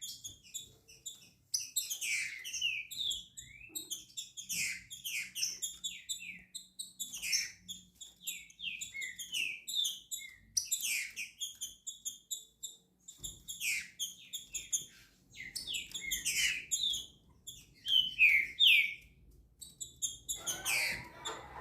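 Green-winged saltator (trinca-ferro) singing, a bird just coming out of its molt: phrases of quick whistled notes, repeated with short pauses between them. Near the end a different, lower sound comes in.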